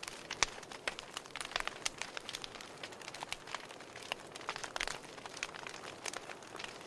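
Wood fire in a fireplace crackling, with irregular sharp pops of varying loudness over a faint hiss.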